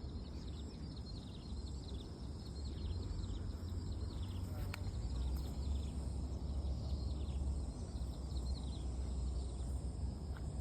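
A steady low outdoor rumble with birds chirping over it: many short, falling chirps.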